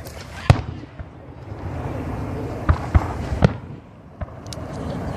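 Professional 1.3G display fireworks going off. There is a sharp boom about half a second in, then a quick cluster of booms around three seconds in and another a second later, over a continuous rumbling noise.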